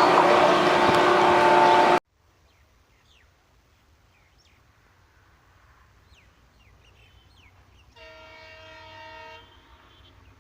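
Diesel-hauled passenger train running loudly with rail and wheel noise, cut off suddenly about two seconds in. Then quiet open-air ambience with scattered bird chirps, and a distant locomotive horn sounding once for about a second and a half near the end.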